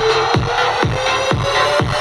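Electronic dance music played through a portable stereo boombox: a steady kick drum about twice a second under a synth tone that slowly rises in pitch.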